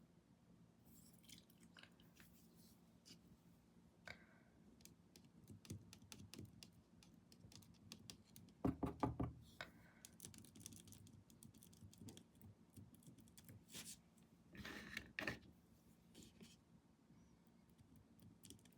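Faint clicks, taps and scrapes of a paintbrush working paint onto a canvas and against paint pots, with two louder clusters of taps about nine and fifteen seconds in.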